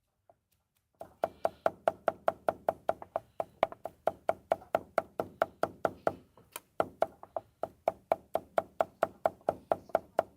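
Rapid, even wooden knocking at about five knocks a second, starting about a second in, with a brief break in the middle, typical of work at a street food stall.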